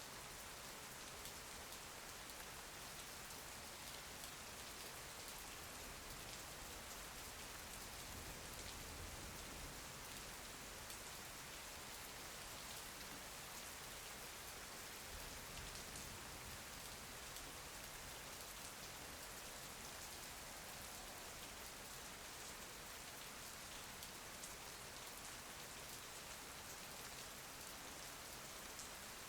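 Steady, soft rain ambience: rain pattering against a window, an even hiss with scattered faint drop ticks.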